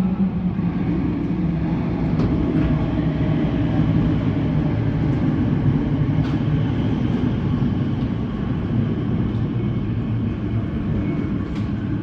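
Class 345 Elizabeth line electric train arriving at the platform: a steady low hum from its motors and running gear, with a few faint clicks.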